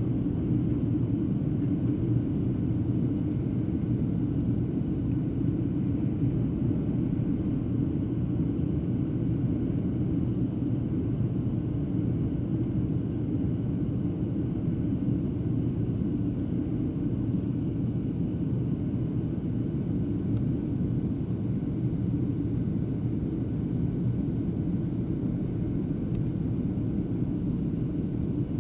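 Steady airliner cabin noise in flight: a continuous low rumble of the jet engines and airflow, heard from a passenger seat.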